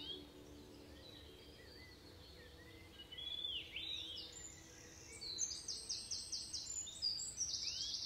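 Birds chirping and singing: thin, high whistled notes that sweep up and down, then from about five seconds in a fast run of short high chirps, several a second.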